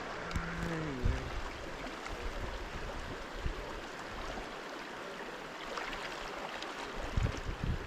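A stream of running water flowing steadily, with low rumbles near the end.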